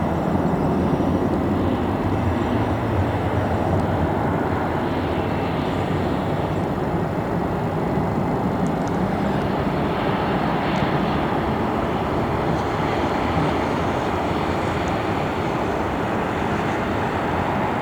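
Cargo aircraft engines running with a steady, loud rumble and hiss that holds level.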